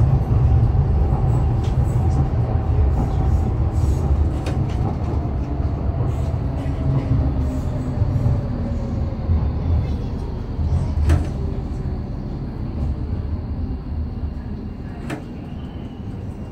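Docklands Light Railway train slowing into a station, heard from inside the carriage: the low rumble of the running train fades steadily while a whine falls in pitch as it decelerates, with a few sharp clicks along the way.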